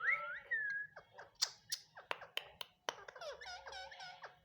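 Indian ringneck parakeet making its own sounds: a short whistled glide up and down, then a string of sharp beak clicks and chirps, and soft chattering near the end.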